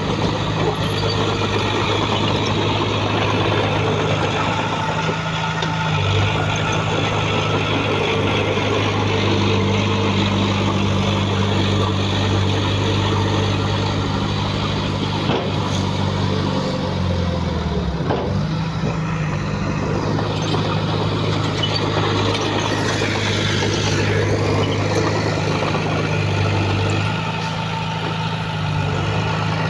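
Heavy diesel engine of earthmoving machinery running steadily, its pitch dipping briefly and then recovering a little past the middle.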